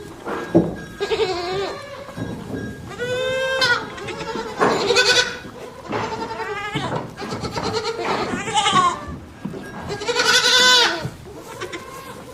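Goats bleating repeatedly: about six wavering calls of under a second each, some higher-pitched than others.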